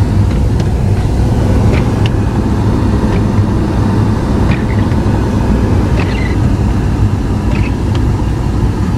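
Car running: a steady low rumble of engine and road noise.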